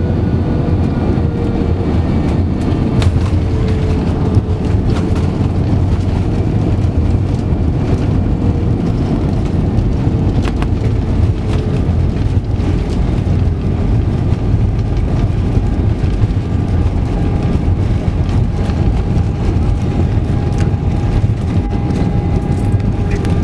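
Steady noise of an Airbus A320-200's engines and rushing air, heard inside the passenger cabin, with a faint steady whine and a few light clicks.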